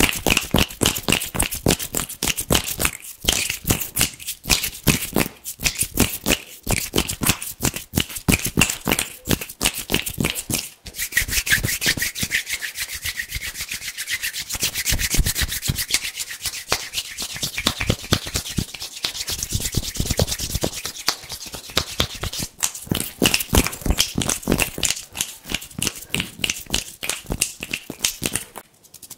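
Hands rubbing together fast in rapid, crisp strokes. From about 11 seconds the rubbing turns smoother and hissier until about 22 seconds, when the quick strokes return.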